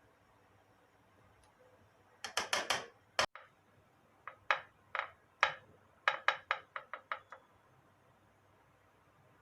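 Sharp knocks and clicks of kitchen utensils: a quick run of four about two seconds in, a single sharper one right after, then scattered single knocks and a fast run of about seven near the end.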